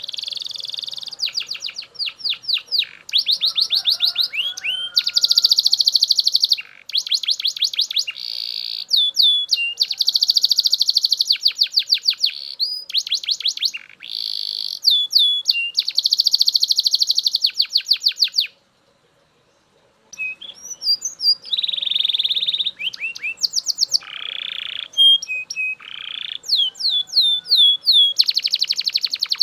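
Belgian canary singing: long, high-pitched phrases of rapid repeated trilled notes, one after another. The song breaks off for about a second and a half about two-thirds of the way through, then resumes.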